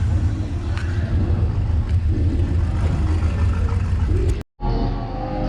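Car engine running with a steady deep rumble. About four and a half seconds in, the sound cuts out abruptly and music starts.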